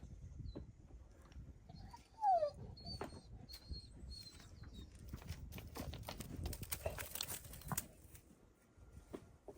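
A dog gives one short, falling whine about two seconds in, amid rustling and small clicks.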